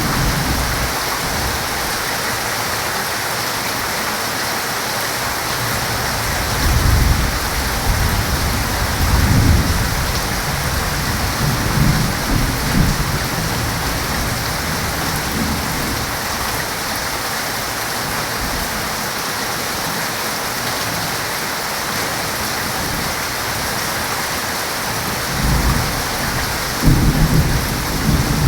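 Heavy rain falling steadily, with thunder rumbling several times in the first half and again near the end.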